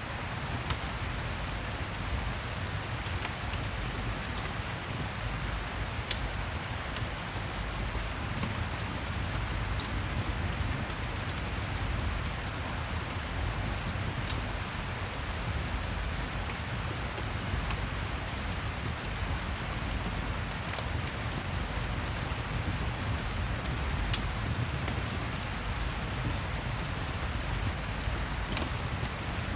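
Steady rain ambience with a deep low rumble, mixed with a crackling fireplace whose sharp crackles come every few seconds.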